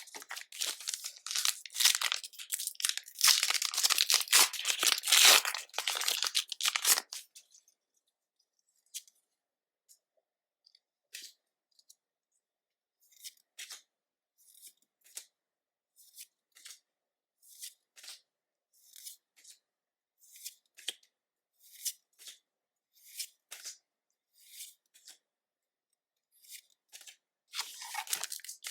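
Foil booster pack wrapper being torn open and crinkled for about seven seconds. Then come quiet, short ticks of cards being handled one at a time, roughly one a second. Crinkling of the wrapper starts again near the end.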